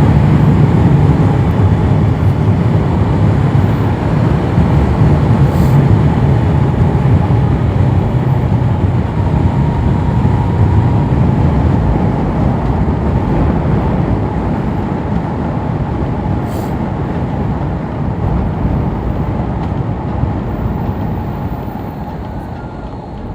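Wind rushing over a riding motorcycle, with the engine and road noise underneath, easing off gradually as the speed drops.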